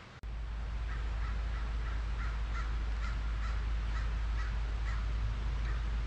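A bird giving a rapid series of short, harsh, crow-like calls, about three a second, over a steady low rumble that starts suddenly just after the start.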